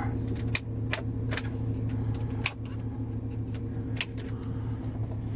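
A DAF truck's diesel engine idling steadily, heard from inside the cab, with scattered light clicks and taps over it.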